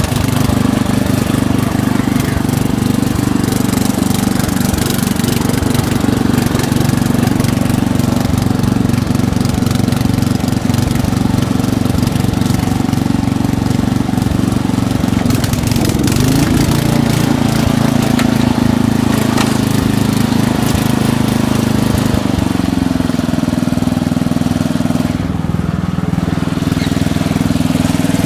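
11-horsepower lawn tractor engine running steadily while the tractor is driven, its pitch dipping briefly about halfway through and settling lower for a few seconds near the end as engine speed changes.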